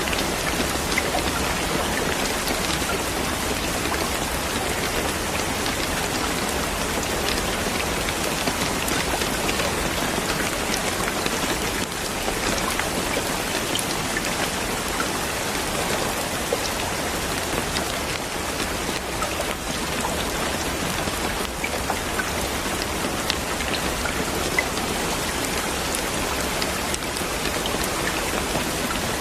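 Steady rain falling: a dense, even patter with scattered individual drops ticking through it.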